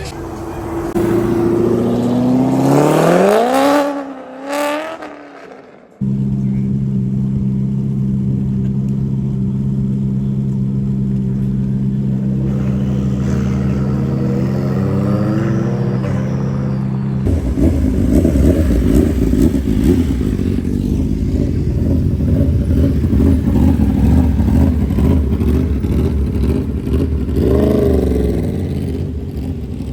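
Car engines at a car meet. An engine revs up sharply and falls back in the first few seconds; then, after an abrupt cut, an engine idles steadily. From about halfway on, a louder, rougher engine runs, with another quick rev near the end.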